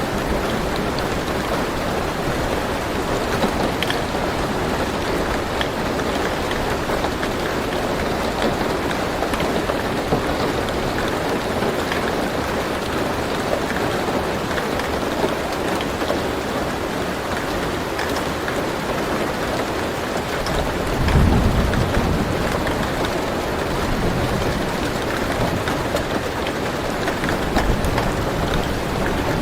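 Steady rain falling on a car roof, heard from inside the car, with scattered individual drop ticks. A short low rumble of thunder comes about two-thirds of the way through, and a fainter one near the end.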